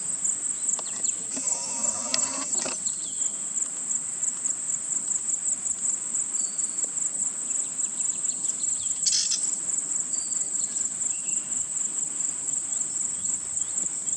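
Chorus of crickets: a steady, fast-pulsing high-pitched trill. A brief, louder, unidentified sound comes about a second and a half in.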